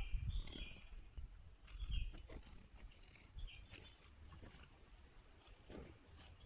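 Garden birds giving short, scattered chirps and calls over a steady high-pitched insect hum. Low rumbles come in during the first two seconds.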